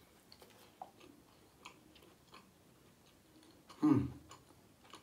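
Faint chewing of a fried waffle stick dipped in chocolate sauce, with small crisp crunches and mouth clicks; the waffle is a little crunchy. A brief vocal sound from the eater about four seconds in.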